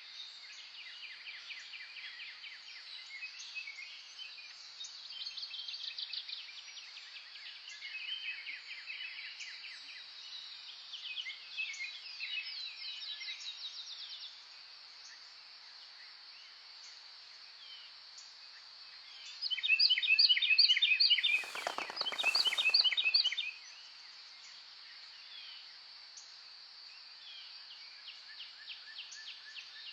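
Songbirds singing in rapid trilled phrases over a steady high-pitched background drone. About two-thirds of the way through, a louder, closer burst of quick repeated notes lasts some four seconds, with a brief rushing noise in the middle of it.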